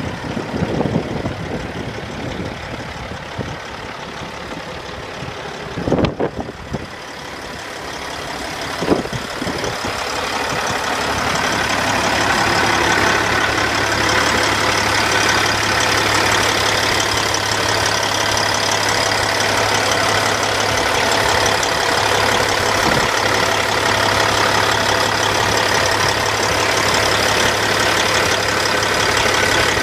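Caterpillar C15 inline-six diesel in a Peterbilt 379 highway tractor running at idle, with a couple of short knocks about six and nine seconds in. The engine sound grows louder around ten seconds in and then holds steady.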